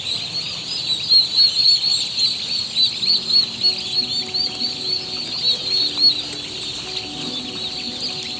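A flock of turkey poults peeping: many overlapping short, high calls. Faint musical notes come in under them from about halfway through.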